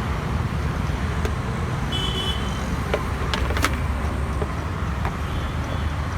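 Street traffic: a steady low rumble of passing vehicles, with a short high horn beep about two seconds in and a few sharp clicks scattered through.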